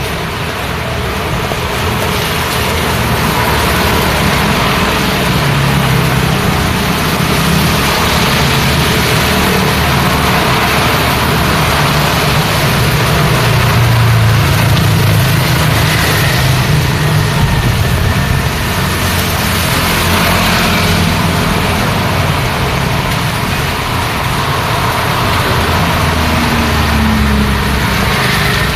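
Road traffic in the rain: a steady low rumble of vehicle engines under an even hiss of rain and wet road. One engine's pitch rises near the end.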